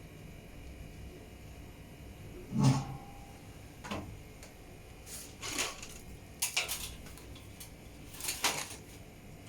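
Scattered workshop handling noises: one loud low thump a little under three seconds in, then several short clicks and scrapes.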